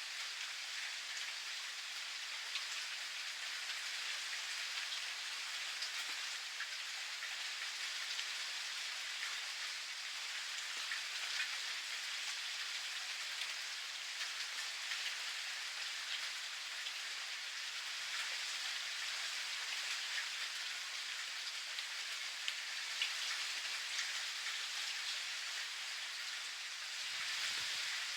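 Steady rain falling, an even hiss with the patter of individual drops striking surfaces. A faint low rumble swells up briefly near the end.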